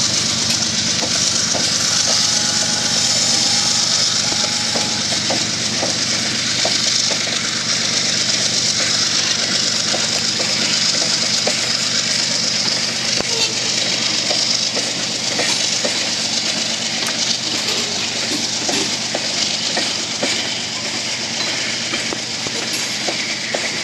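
A diesel freight train pulling slowly past under load: a steady locomotive engine drone under a constant hiss, with many small clicks of wheels on the rails.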